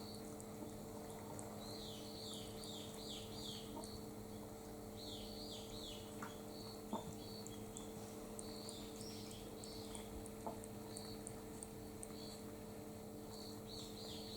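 Small birds chirping in several short runs of quick, falling high notes, over a steady low hum, with a few faint clicks.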